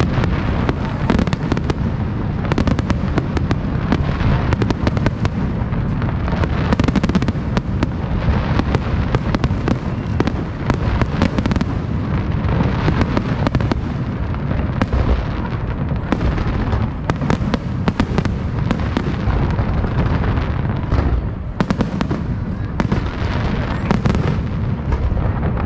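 Fireworks display: a dense, unbroken barrage of bangs and sharp cracks over a steady low rumble.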